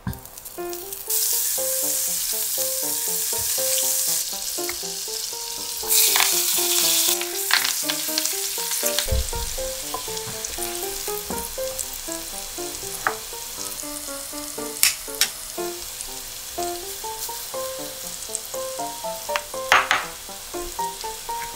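Butter melting and sizzling loudly in hot oil in a frying pan, starting about a second in, with a second loud burst of sizzling about six seconds in as curry leaves and chilies go into the pan. After that the sizzling settles to a steadier, quieter hiss, with a silicone spatula stirring and a few sharp clicks.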